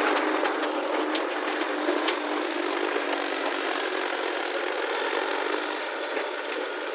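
Diesel engine of heavy earth-moving machinery running steadily and slowly getting quieter, with a couple of faint knocks.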